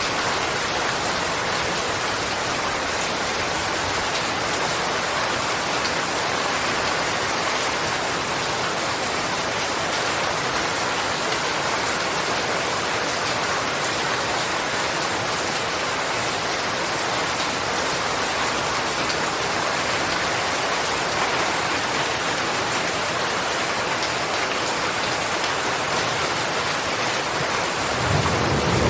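Steady, even rainfall with a continuous hiss of drops on surfaces. Near the end a low rumble of thunder begins to build under the rain.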